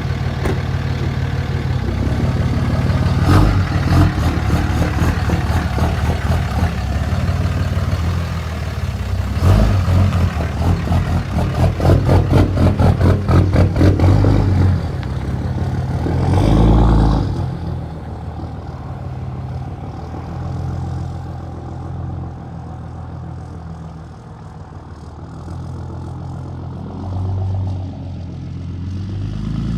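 Truck engine running and revving, with a run of rapid even pulses near the middle, then dropping to a quieter, steadier run in the second half.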